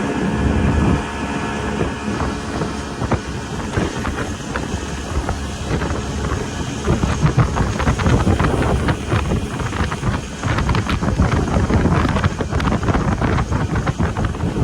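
Speedboat engine running at speed, with wind buffeting the microphone. From about halfway in, a dense run of short knocks joins the steady engine sound.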